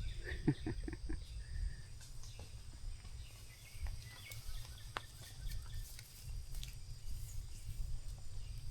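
Outdoor pasture ambience: steady insect chirring high up over a low rumble, with a few faint clicks and rustles.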